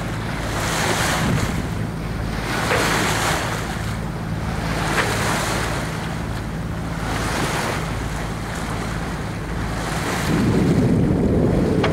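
A motorboat's engine humming steadily while water rushes and splashes against the hull in swells every couple of seconds, with wind buffeting the microphone; a louder wash of water and wind comes near the end.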